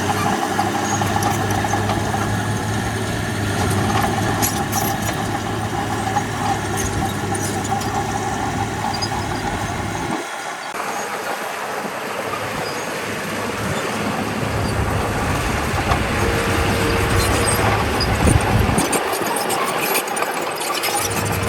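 Diesel engine of heavy earthmoving machinery running steadily with a low hum. About ten seconds in, the deep rumble drops out briefly, then comes back.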